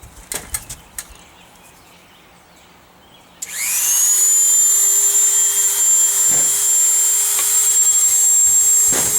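A few handling clicks, then a Dremel 3000 rotary tool with a cut-off wheel switches on about three seconds in, its whine rising fast as it spins up, then running at a steady high-pitched speed.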